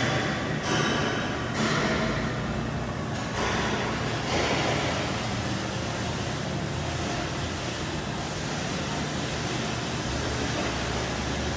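Steady machinery rumble with a broad rushing noise and a low hum, with several louder surges in the first few seconds before it settles.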